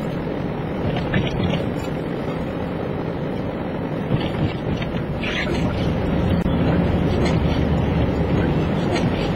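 Steady low rumble of a vehicle driving on a snow-covered road, heard from inside the cabin, with wind buffeting against it. It grows a little louder after about six seconds.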